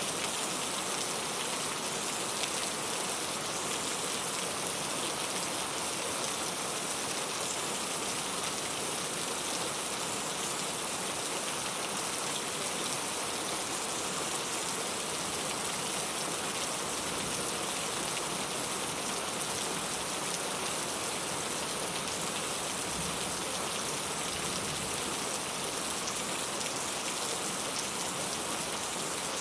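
Steady rain falling, a constant even hiss with the fine patter of drops on a surface.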